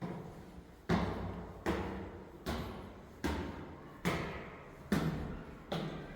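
Footsteps on an apartment building's stairwell: seven even, echoing steps, a little more than one a second.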